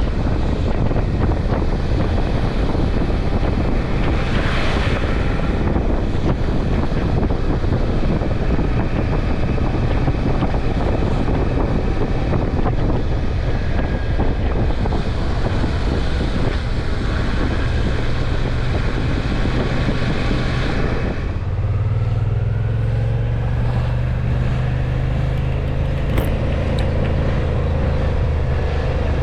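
Suzuki V-Strom motorcycle ridden at speed, with heavy wind rushing over the microphone. About 21 seconds in the wind noise drops sharply and the engine's steady note comes through, its pitch rising slowly.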